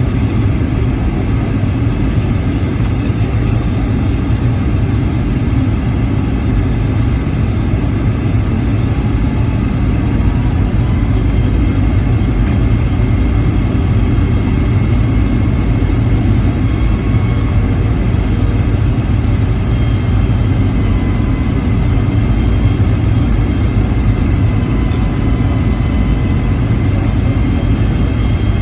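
Boeing 757-300 jet engines and airflow heard from inside the passenger cabin in flight: a loud, steady, deep rumble with a faint high whine running through it.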